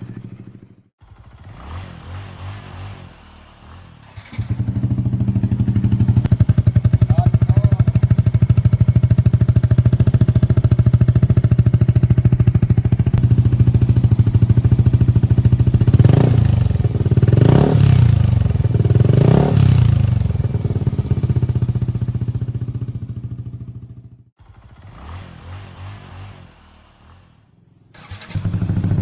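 Yamaha NMAX scooter's 155 cc single-cylinder four-stroke engine through an aftermarket racing exhaust. It idles quietly at first, jumps to loud steady running about four seconds in, is revved up and down three times in the middle, drops back to a quieter idle, and turns loud again near the end.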